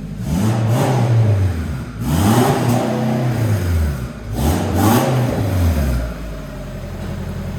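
Turbocharged engine revved up and back down three times in quick succession, then settling to a steady idle about six seconds in.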